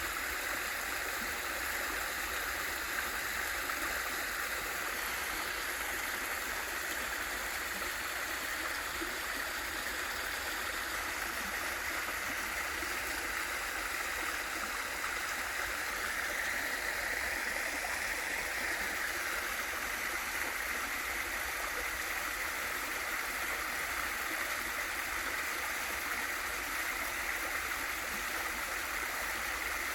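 Mountain stream and small waterfall rushing and splashing over rocks in an even, unbroken wash.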